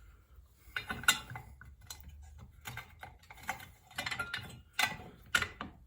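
Irregular sharp clicks and taps of a flat-blade screwdriver working against the Corvette headlight assembly parts, prying open the too-tight pocket where the adjuster screw goes through.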